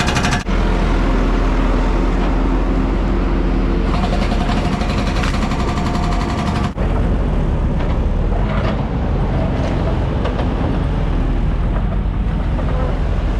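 Heavy diesel equipment engine running steadily under load. The sound breaks off for an instant twice, about half a second in and again partway through.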